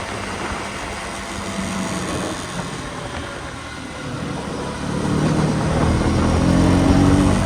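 KTM Duke 250's single-cylinder engine running on the move. About halfway through it revs up and the pitch rises as it pulls harder, then it drops off near the end.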